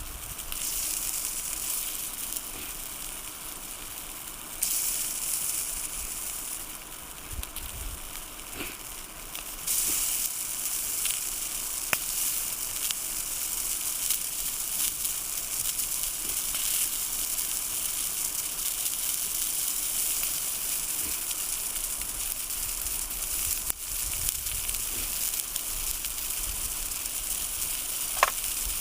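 Food frying over a campfire, a steady sizzle that gets louder about five seconds in and again near ten seconds, with a few single pops.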